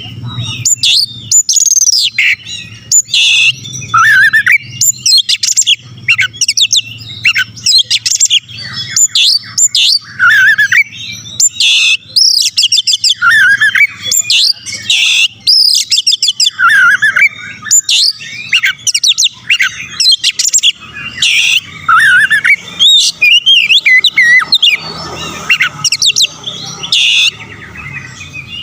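Oriental magpie-robin (kacer) singing a long, varied song of rapid whistles, sweeping notes and chirps, with short harsh notes mixed in, in quick phrases with brief pauses.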